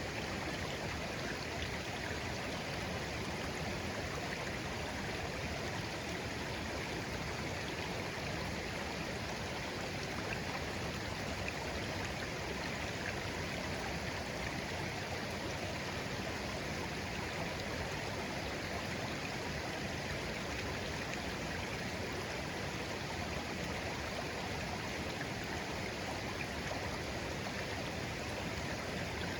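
A shallow, clear stream flowing gently, a steady babble of water over stones with no changes.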